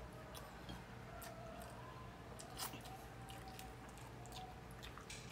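A person chewing food with the mouth, faint, with scattered small clicks and smacks.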